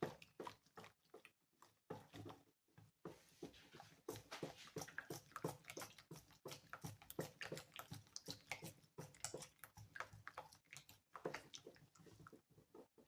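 Faint mixing of pancake batter in a bowl by hand: irregular quick clicks and wet squishing as the utensil works flour into the liquid to break up lumps.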